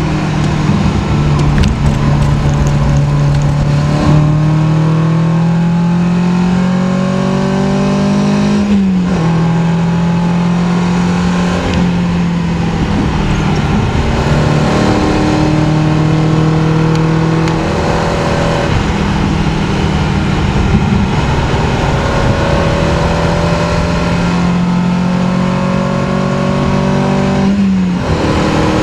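In-cabin sound of a race-tuned 1972 BMW 2002 Tii's four-cylinder engine on twin Weber 45 carburettors, pulling hard with its pitch climbing through a gear. It drops sharply at an upshift about nine seconds in and again near the end.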